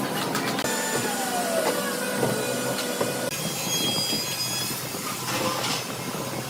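Woodworking machinery cutting wood: a steady mechanical rush with scraping, with a few knocks scattered through and a short falling whine between one and two seconds in.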